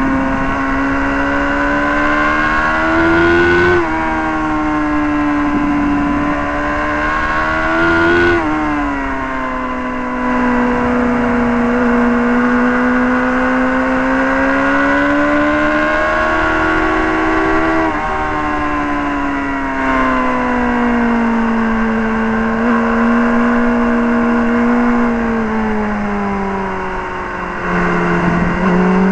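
Honda Fireblade's inline-four engine running hard on a race track, its pitch climbing and then dropping sharply about 4 and 8 seconds in and again around 18 seconds, as on gear changes. It then falls gradually for several seconds, dips in loudness near the end and picks up again as the throttle opens.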